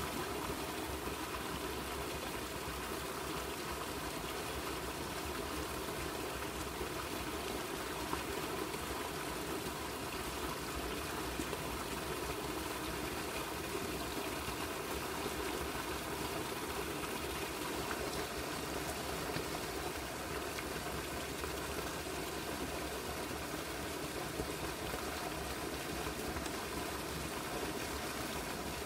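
River water running steadily, an even, unbroken rush with no pauses or changes.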